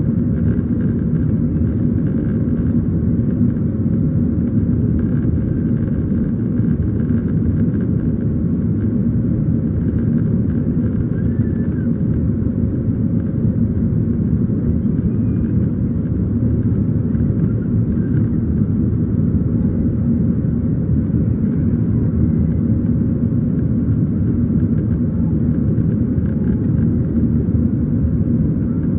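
Steady, unbroken low rumble of a Southwest Airlines Boeing 737-700 heard from inside the passenger cabin as it climbs out after takeoff, its CFM56-7B engines and the airflow giving an even noise with a faint steady hum.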